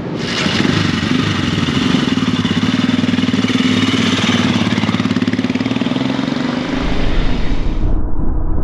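Royal Enfield Himalayan single-cylinder motorcycle engine running steadily, swelling in level at the start. About seven seconds in, a low rumble takes over and the engine note thins out.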